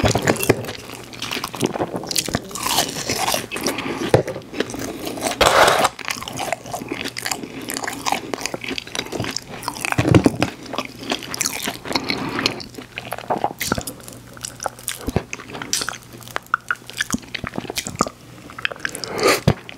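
Close-miked eating: a person biting and chewing McDonald's French fries dipped in cheese sauce and a soft-serve ice cream cone, with crunching and many small sharp clicks. There is a louder knock about halfway through.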